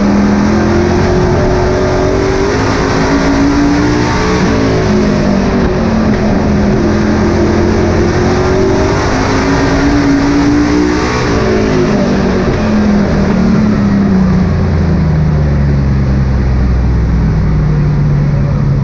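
Race truck engines running hard on a short oval track, the engine note rising and falling repeatedly as they accelerate down the straights and lift for the turns. From about fourteen seconds in, the note drops lower and holds steadier.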